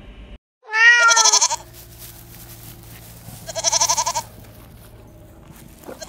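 A young goat bleating: short, quavering calls repeated every few seconds.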